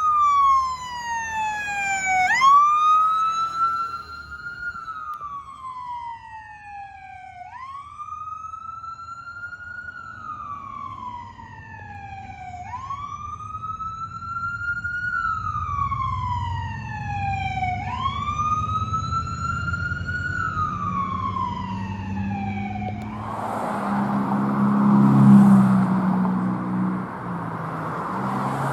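Emergency vehicle's electronic siren on wail, sweeping up and down in pitch about once every five seconds. About 23 seconds in the wail stops and loud vehicle noise takes over, loudest a couple of seconds later.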